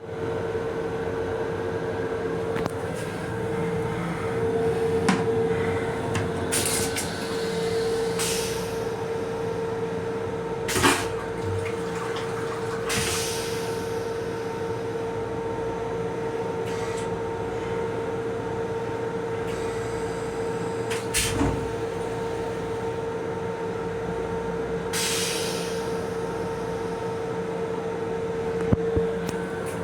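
Steady hum inside an MTA M7 electric railcar's restroom, with one steady tone running through it. A few sharp knocks and several short hisses come and go over it.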